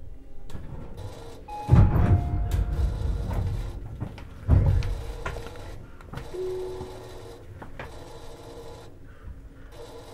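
Tobu 50090 series commuter train standing at a station, heard from under the car floor: low background noise with two loud thuds, about 1.7 s and 4.5 s in, and a few short faint tones.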